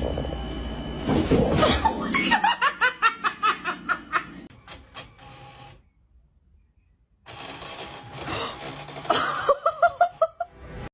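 A person laughing in rapid, rhythmic bursts, in two runs separated by a moment of silence.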